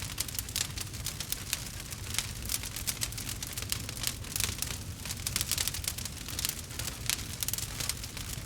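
Campfire crackling steadily: many quick pops and snaps over a low rumble of burning.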